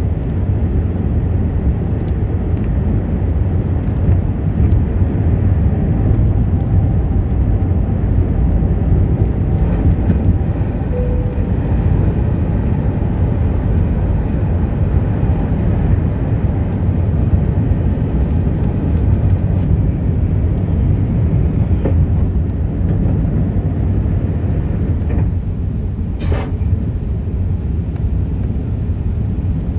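Steady, loud low rumble of an Airbus A380's Rolls-Royce Trent engines and airflow, heard inside the passenger cabin during take-off. A brief faint tick comes about 26 seconds in.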